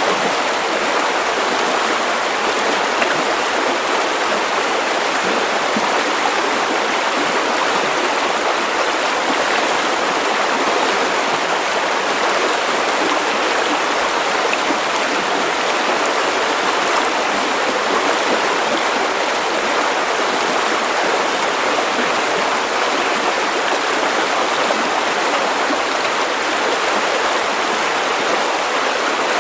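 River water flowing over stones, a steady rushing and babbling at an even level.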